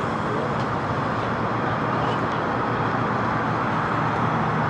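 Steady, unbroken hum of car engines and traffic.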